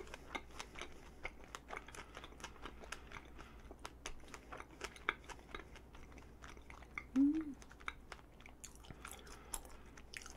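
Close-miked chewing of a strawberry chapssal-tteok, a chewy glutinous rice cake filled with strawberry and red bean: soft, sticky mouth clicks and smacks all through. A short hummed "mm" comes about seven seconds in.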